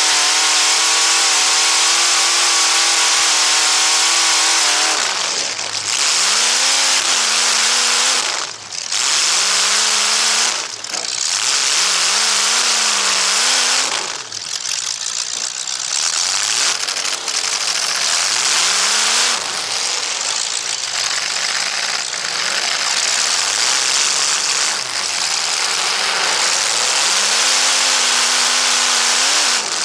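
Loud car engines revving and easing off again and again, the pitch climbing and falling every second or two, over a steady hiss of noise.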